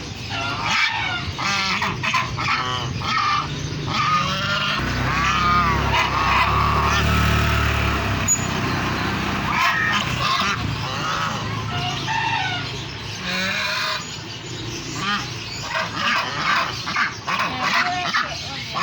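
Geese honking, with chickens and other caged birds calling over one another in a dense, overlapping chorus. A low rumble runs under the calls from about five to eight seconds in.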